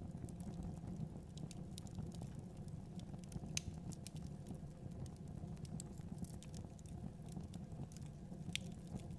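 Wood fire burning in a fireplace: a steady low rumble with scattered small crackles and pops, a sharper pop about three and a half seconds in and another near the end.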